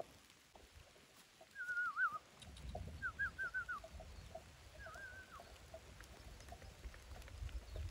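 A bird singing three short phrases of quick wavering notes, over a low rumble that sets in about a third of the way through.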